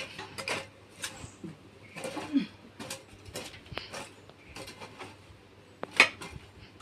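Scattered clicks and knocks of household objects being handled, with the loudest a sharp knock about six seconds in.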